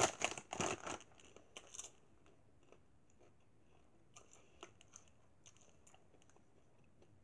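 Sweet coated popcorn being chewed: a loud bout of crunching in the first second, a few more crunches a second or so later, then faint, sparse crunches.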